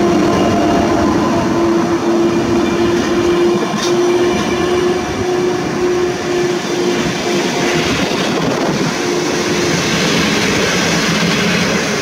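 Passenger coaches of a train rolling along a station platform: a steady running noise from the wheels on the rails, with a steady hum that drops out now and then and one brief click about four seconds in.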